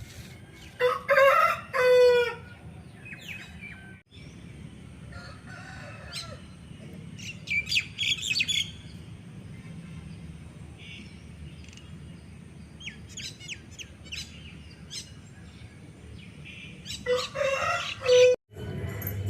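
Bird calls: a loud, long call about a second in and another near the end, with shorter high chirps from smaller birds in between.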